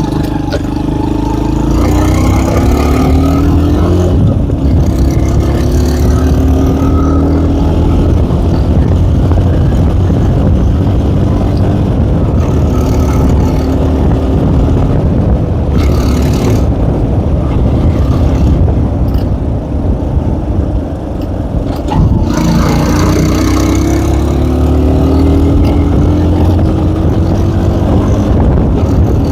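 K-Moto ATX moped's small engine running while being ridden, rising in pitch several times as it revs up, with a short let-off about twenty seconds in.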